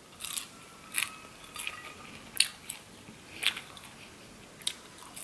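Close-up eating sounds: chewing with sharp, crisp crunches about once a second.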